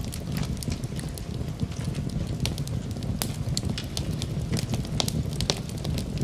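Wood fire in a fireplace crackling, with frequent sharp irregular pops over a steady low rumble.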